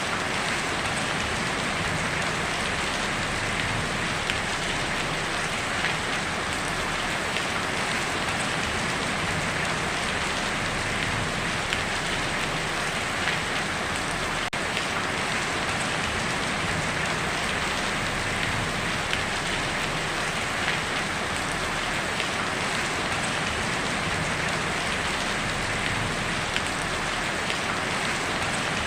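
Heavy rain falling on a tin roof: a steady, dense patter of drops, with small individual hits standing out now and then.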